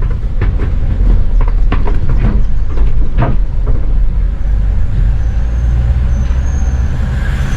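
Vehicle running with a loud, steady low rumble, with a few short knocks or rattles in the first few seconds.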